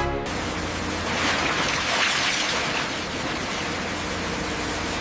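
A pump running with a steady rushing hiss of water, a low hum underneath, swelling a little about two seconds in. Music cuts off just as it begins.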